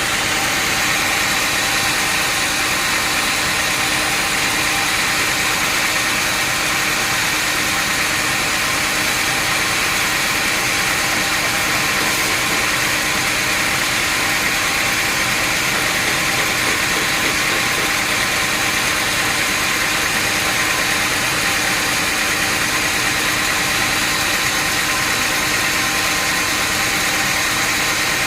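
Sawmill machinery running steadily: a constant engine-like drone and hiss with a few steady tones and no change in load.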